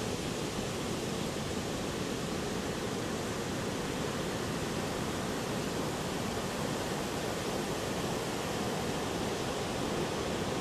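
Heavy ocean surf from a big storm swell ahead of an approaching typhoon, a steady, unbroken wash of breaking waves with no single crash standing out.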